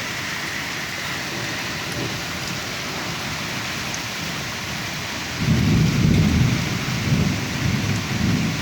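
Hail and rain beating down in a steady hiss. About five seconds in, a much louder, deep pulsing rumble of the storm sets in and keeps going.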